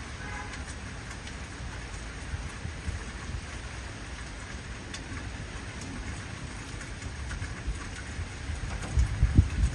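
Heavy rain falling steadily in an even hiss. Near the end a low rumble of thunder swells up.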